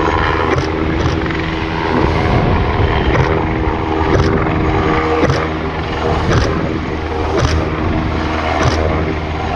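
Military helicopter running: a steady engine and rotor hum with several held tones, and sharp high ticks about once a second.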